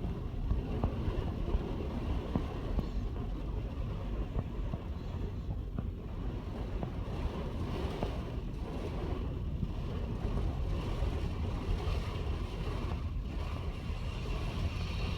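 Strong gusty wind from a windstorm, with a heavy low rumble of wind buffeting the microphone.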